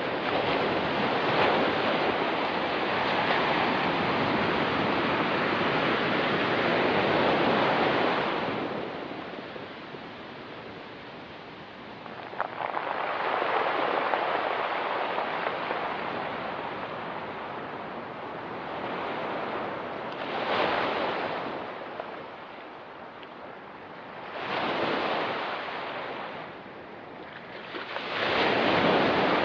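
Ocean surf washing onto a rocky beach: one long wash of waves for the first eight seconds or so, then four shorter surges of breaking waves, the last near the end.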